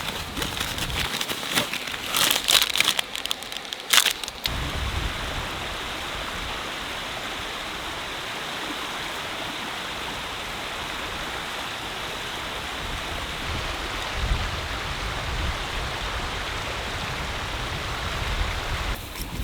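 Steady rain falling in a storm, an even hiss throughout. Wind buffets the microphone at the start and again later on, and a few sharp crackles come in the first few seconds.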